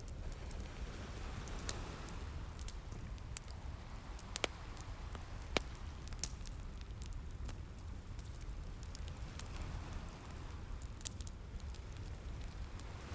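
Wood fire crackling with many scattered sharp pops, the two loudest near the middle, over a steady low rumble of ocean surf with a soft wash of waves swelling and fading.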